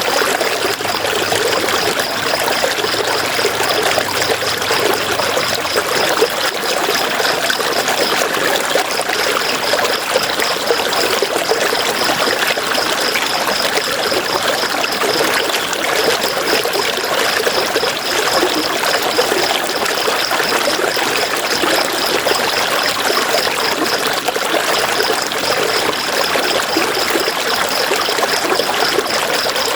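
River water flowing and splashing steadily. A high, rapidly pulsing sound runs over the water and breaks off briefly twice.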